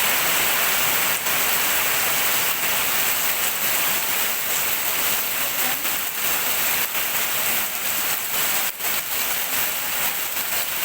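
Steady rain falling, an even hiss with a few sharper drop hits here and there.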